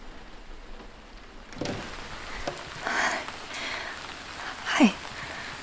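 Steady rain falling on surfaces, fading in about a second and a half in. Over it come a few short louder sounds and, near the end, the loudest of them: a brief sound sliding sharply down in pitch.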